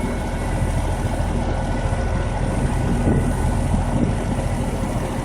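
Trane XE1100 WeatherTron heat pump outdoor unit running steadily in cooling mode: the compressor and condenser fan make a low hum, with a faint high-pitched whine.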